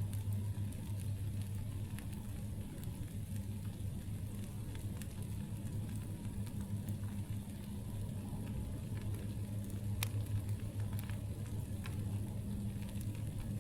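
Campfire crackling, with scattered small pops and one sharper snap about ten seconds in, over a steady low hum.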